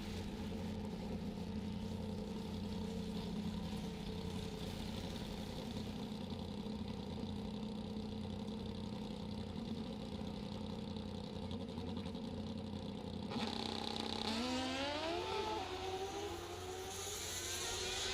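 Two Pro Stock drag-racing motorcycles running steadily at the starting line, then launching about thirteen seconds in. Their engines rise sharply in pitch and drop back with each gear change as they accelerate down the track.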